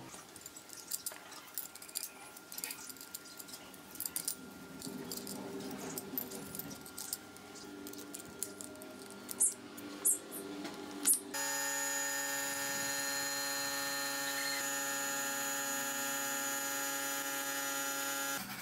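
Small metallic clicks and taps of parts and tools being handled. About eleven seconds in, a steady machine whine starts suddenly, runs for about seven seconds and cuts off.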